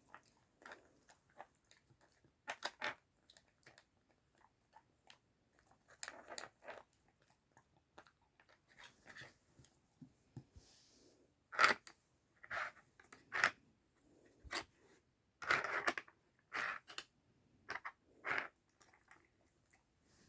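A dachshund crunching and chewing treats taken from a treat puzzle toy, with scattered small clicks and knocks. The sounds come in short, irregular bursts that are busiest and loudest in the second half.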